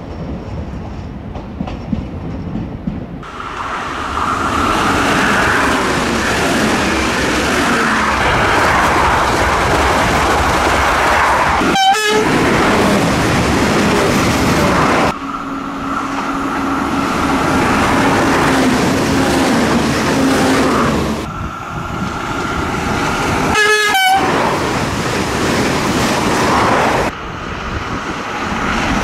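Alstom Coradia Liner V160 (Régiolis) multiple units passing one after another in a series of cut-together clips, with steady rushing wheel-on-rail noise as each train goes by.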